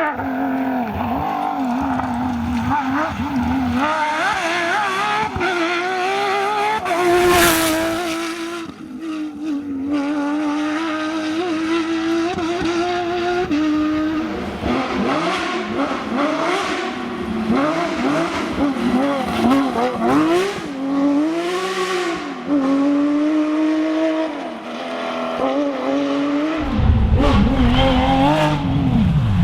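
Porsche rally cars' flat-six engines revving hard, the pitch climbing and dropping again and again through gear changes and lifts, with some tyre squeal. A short sharp crack about a quarter of the way in, and a deep rumble joins near the end.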